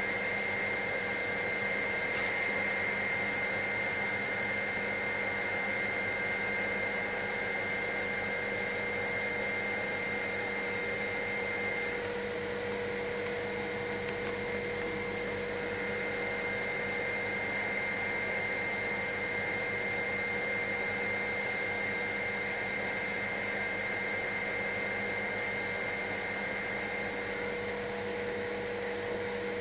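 Helicopter in climbing flight, heard from inside the cabin: a constant drone of engine and rotors with a steady high-pitched whine over it.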